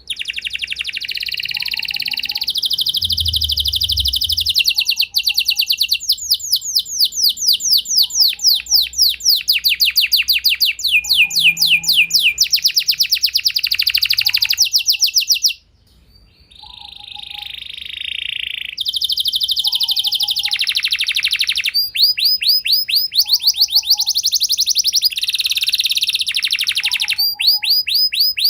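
Domestic canary singing a long song of fast trills, each a rapid run of repeated notes, switching to a new trill at a different pitch every second or two, with a short break about halfway through. A faint short chirp repeats in the background about every second and a half.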